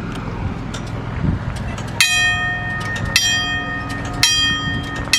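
Steam locomotive bell on a 2-8-0 Consolidation engine, rung by hand: four strokes about a second apart, starting about two seconds in, each ringing on into the next.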